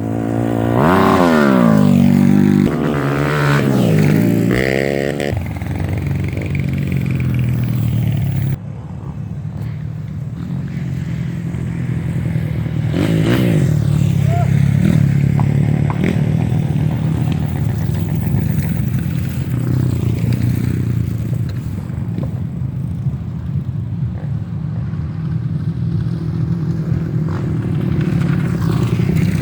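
Off-road motorcycle engines revving, the pitch climbing and falling repeatedly in the first few seconds, then running at a steadier drone with smaller rises after an abrupt change about eight seconds in.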